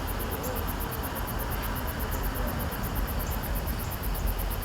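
Insects, crickets or katydids, chirping in a rapid, even, high-pitched pulse over a steady low rumble.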